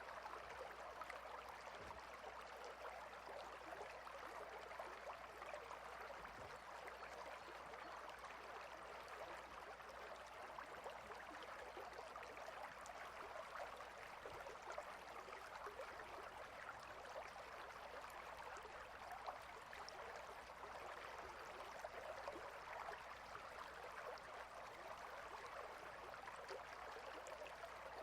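Clear, shallow river water flowing steadily between rocks, an even, unbroken rush of running water.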